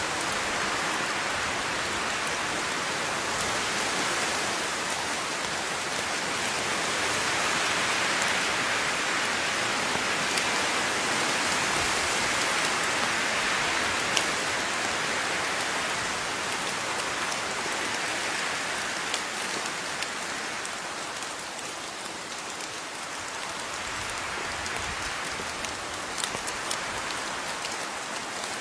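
Steady rain falling, its hiss swelling and easing gently, with scattered individual drops ticking on a surface.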